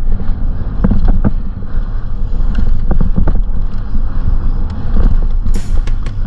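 Wind buffeting the microphone over the rattle and knocks of an electric mountain bike ridden fast down a rough, rocky singletrack trail, with sharp knocks scattered throughout.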